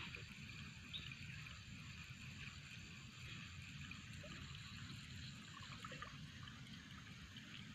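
Faint flowing river water, with a steady high hiss and a few small ticks.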